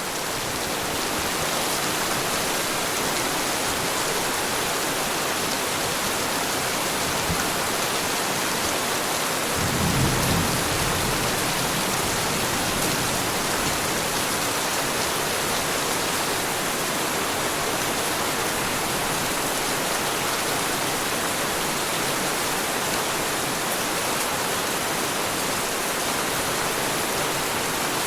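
Heavy rain falling steadily, with a short low rumble of thunder about ten seconds in.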